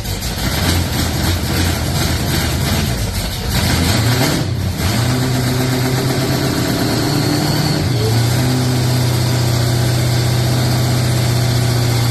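Freshly rebuilt Holden 253 V8 running on its first start, its new cam and lifters being bedded in. It runs unevenly at first with a brief stumble about four and a half seconds in, then settles into a steady run that rises slightly in pitch about eight seconds in.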